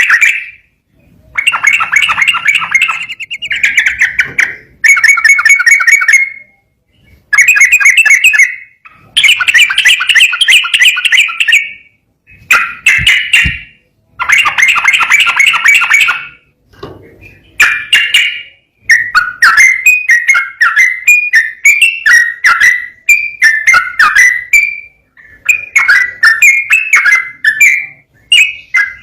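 Sooty-headed bulbul (trucukan) singing loud phrases of rapidly repeated notes, each phrase a second or two long with short pauses between. From about two-thirds of the way in, the song breaks into shorter, choppier notes that jump in pitch.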